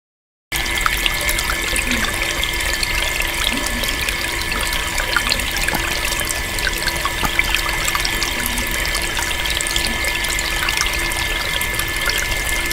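Water running and trickling steadily, with many small splashes and a steady hum under it; it cuts in suddenly about half a second in, after dead silence.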